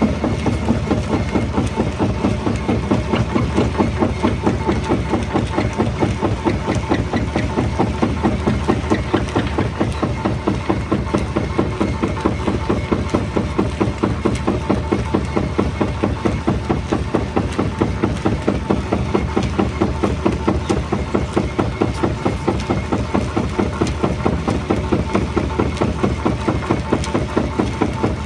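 Jaw rock crusher running, with a steady, rapid rhythmic pulse that does not let up.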